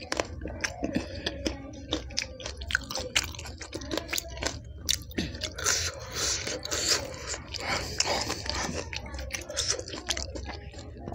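Close-miked chewing and crunching of raw green chillies taken from spiced pani puri water: many small, irregular crunches and bites.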